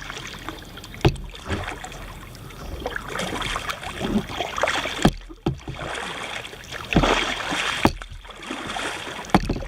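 Kayak paddling: the paddle blades dipping and splashing in the water in swells every couple of seconds, with several sharp knocks along the way.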